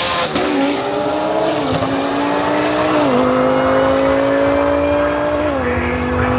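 Race car accelerating hard in a roll race, its engine note climbing slowly in each gear and dropping sharply at each of several upshifts.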